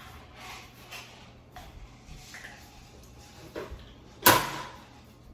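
Kitchen handling noises: a few faint knocks, then one sharp loud bang about four seconds in with a short ringing tail, like a cupboard door or drawer banging shut.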